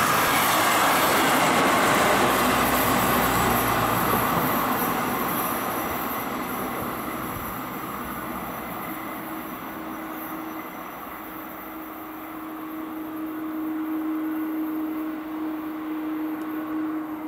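Measuring train hauled by a DB class 143 electric locomotive running past on the rails, its wheel and running noise loudest in the first few seconds and then fading as it moves away. A steady droning tone comes in about halfway and grows louder toward the end.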